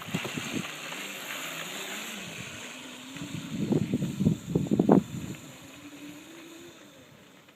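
Electric motor of a 36-volt Razor MX350 dirt bike whining, rising slowly in pitch as it gathers speed, with gusts of wind buffeting the microphone in the middle.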